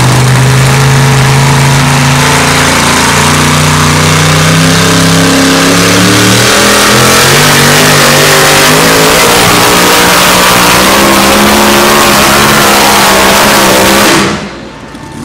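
Engine of a competition pulling vehicle running very loud and hard during a pull, its pitch wavering; the sound drops away abruptly about a second before the end.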